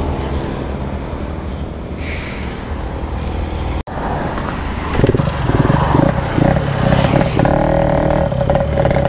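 Motorcycle engine running, with a brief cut just under four seconds in; from about five seconds in the engine noise gets louder, with a held tone near the end.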